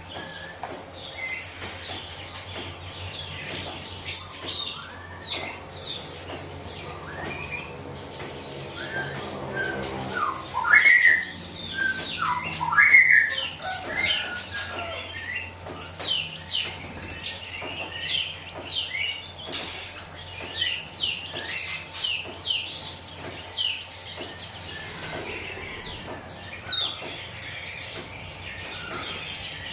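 Oriental magpie-robin (kacer) calling in many short, quick chirps, with a louder run of notes about ten to thirteen seconds in.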